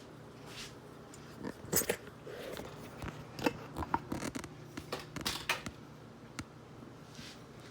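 Crunchy cookies being bitten and chewed: an irregular run of sharp crunches and clicks, starting about a second and a half in and dying away near six and a half seconds.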